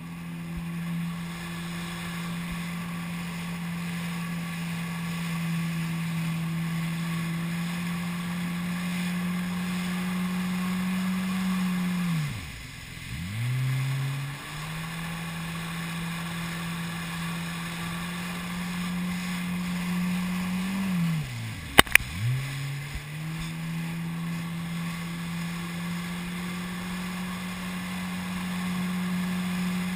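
Jet ski engine running at a steady high throttle, its pitch dropping sharply and climbing back up twice, about twelve seconds in and about twenty-two seconds in as the throttle is let off and opened again. Two sharp knocks come at the start of the second dip.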